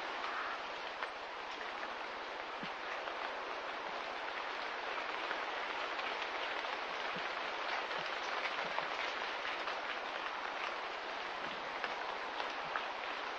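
Light rain falling steadily, a continuous even hiss with scattered small drips ticking through it.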